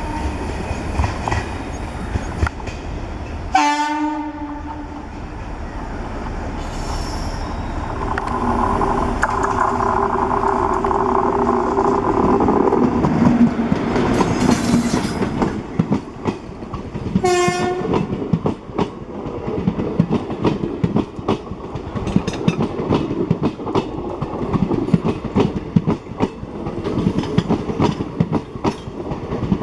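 Electric locomotive-hauled express train passing with its horn sounding: a short blast about 4 seconds in, a long multi-tone blast from about 8 to 13 seconds, and another short blast near 17 seconds. Steady rolling noise with wheels clattering rhythmically over rail joints throughout, most densely in the second half.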